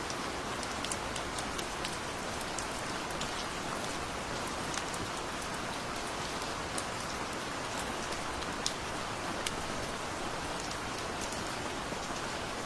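Steady gentle rainfall: an even hiss of rain with many individual drops ticking sharply on a surface.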